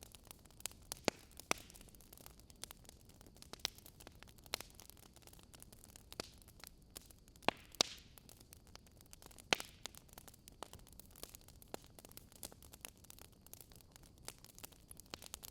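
Wood fire crackling in a fireplace: irregular sharp pops and snaps from the burning logs over a low steady hiss, the loudest pops clustered about a second in, near the middle, and a little after.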